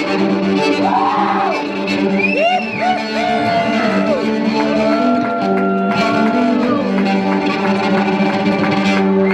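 Live folk music: a steady held chord with voices singing and calling out over it in gliding wails, at the close of the song.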